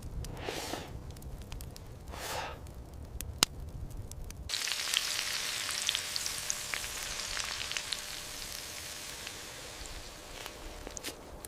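Kebabs sizzling over the heat, a dense hiss full of small crackling pops that starts abruptly about four and a half seconds in. Before it, a low rumble with two brief whooshes and a single sharp click.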